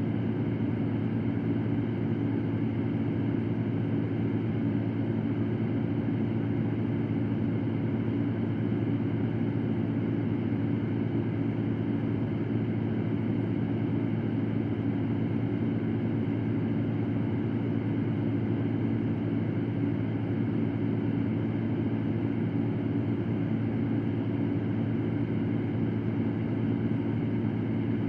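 Electric fan running steadily: an even rush of moving air over a low, constant motor hum, with no change throughout.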